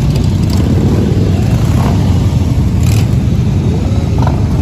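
Many motorcycle engines running together in a steady loud rumble.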